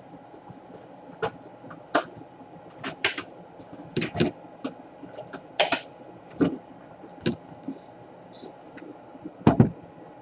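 Irregular light clicks and taps of small tools and parts being handled on a workbench, over a faint steady hum. The taps come about a dozen times at uneven spacing, with a louder pair near the end.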